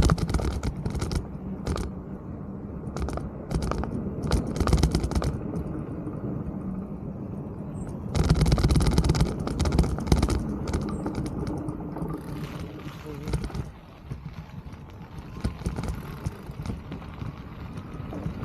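Mountain bike rolling over a rough trail: steady tyre and wind noise with clusters of sharp knocks and rattles as the bike goes over bumps, loudest and roughest a little past the middle.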